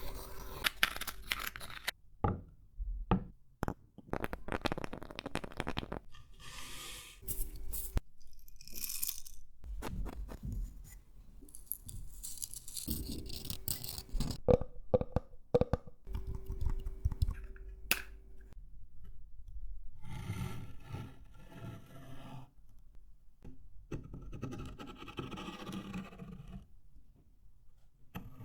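A string of ASMR trigger sounds that changes every second or two: scraping, scratching, tapping and crunching of wooden objects and nuts, with sharp clicks in between. From about twenty seconds in, wooden objects alone are rubbed and scraped.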